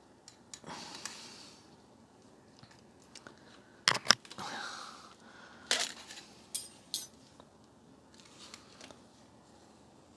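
Handling noises of a bent wire coat-hanger hook being worked into a vacuum cleaner's plastic hose: sharp plastic and metal clicks and knocks, loudest about four seconds in, with scraping and rustling between them.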